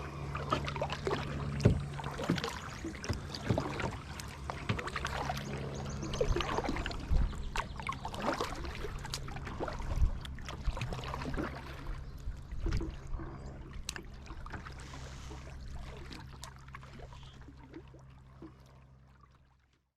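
Kayak paddling: the paddle dipping and splashing, with scattered knocks against the hull, over a steady low hum. It fades out over the last few seconds.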